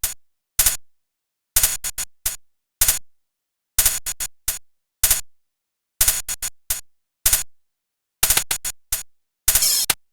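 Downtempo electronic music from a 1998 tracker module. Short, sharp sampled hits come in quick clusters of two to four, about one cluster a second, with dead silence between them. A longer, denser burst comes near the end.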